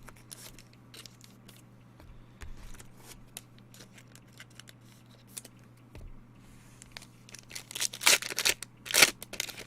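Baseball card packaging and cards being handled: soft clicks and rustles, then loud tearing and crinkling of a wrapper near the end, over a steady low hum.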